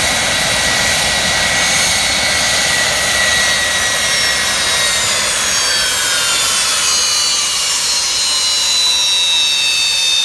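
Beriev Be-200 amphibious jet's twin turbofan engines running with a loud rushing noise and high turbine whine; about halfway through the whine slides down in pitch.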